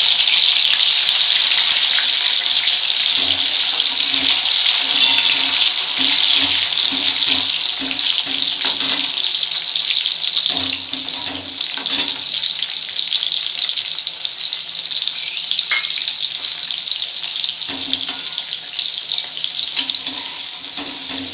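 Cashews and raisins frying in hot rice bran oil in a steel kadai: a loud, steady sizzling hiss that eases a little in the second half, with a few sharp clicks of the metal spatula against the pan.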